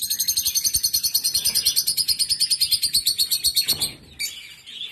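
African lovebird giving a rapid, high-pitched chattering call of about ten chirps a second, which stops shortly before the end and gives way to softer, lower twittering.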